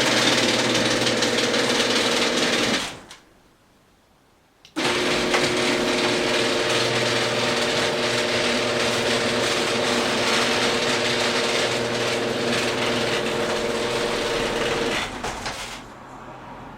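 Old Genie screw-drive garage door opener's motor running its screw drive with a steady mechanical hum. It stops for about two seconds, starts again, and dies down near the end. The owner suspects a worn carriage or a worn section of the screw.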